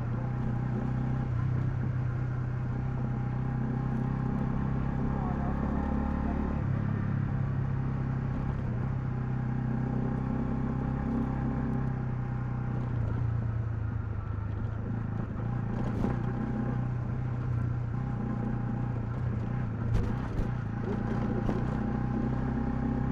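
Honda CL250's single-cylinder engine running under way, its pitch stepping down and up a few times as throttle or gear changes. A few sharp clicks near the end.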